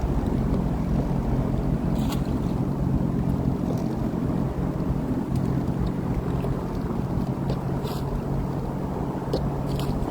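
Sea-Doo Fish Pro personal watercraft engine running steadily, a constant hum under the rush of water and wind.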